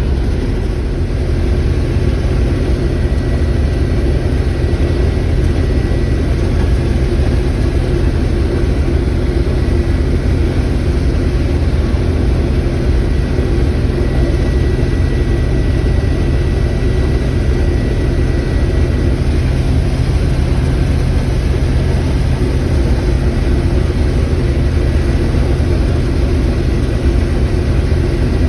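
Combine harvester running steadily under load while harvesting corn, a constant heavy engine and machinery drone, with a faint high whine over it through the first two-thirds.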